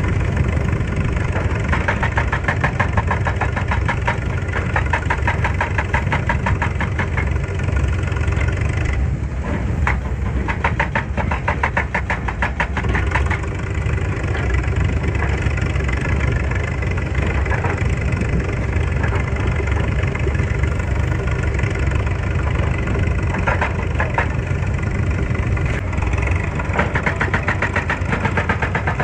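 Excavator's diesel engine running steadily, with a fast, even clatter that comes through more strongly for a few seconds about a third of the way in.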